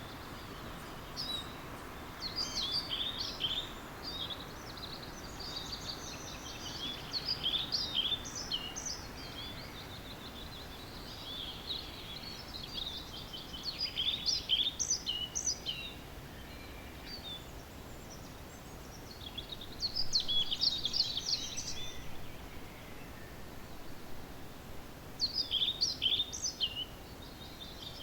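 Songbirds singing in a morning chorus: a high, fast song phrase of two to three seconds comes every few seconds, five times, over a steady hiss of outdoor background noise.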